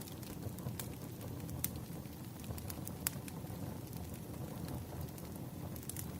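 Firewood crackling in a fire: a steady low hiss with sharp pops scattered through it, a few seconds apart.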